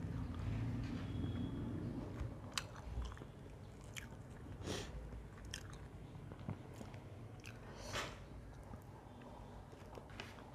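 Close-miked chewing and biting of a person eating buckwheat roti, with a few sharp wet mouth clicks and smacks scattered through.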